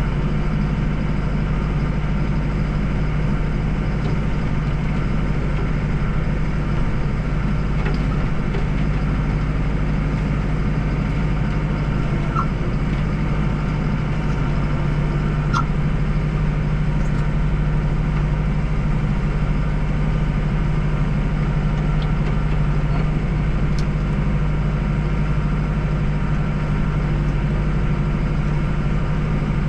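Deutz-Fahr 5120G tractor's diesel engine running steadily while driving a snowblower through snow, a constant low drone.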